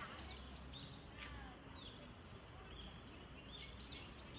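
Small birds chirping faintly in the trees, short high chirps scattered irregularly, over a steady low background hum.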